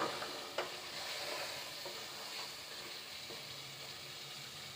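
Potatoes and mutton in masala frying in oil in a pot, a soft steady sizzle while being stirred with a spatula (bhuna stage), with one light knock about half a second in.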